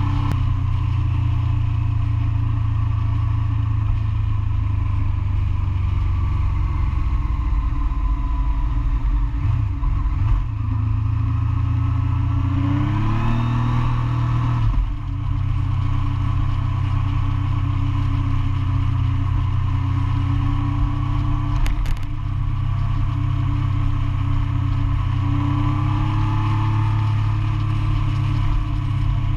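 Motorcycle engine running under way with a steady low rumble. The revs climb about 13 seconds in and drop sharply near 15 seconds, as at a gear change.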